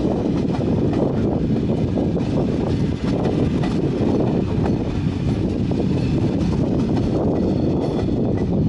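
SBB EuroCity electric train rolling past close by: a steady low rumble of wheels on rails, with faint ticks over it.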